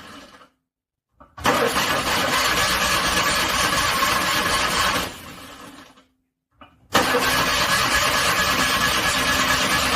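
Cold car engine cranked by its starter motor in two attempts of about three and a half seconds each, with short silent pauses between them. It does not catch and settle into running.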